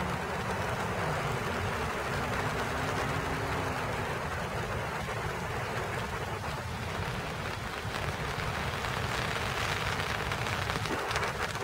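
Steady rain falling on rose bushes, pattering on leaves and petals, with a faint low hum in the first few seconds.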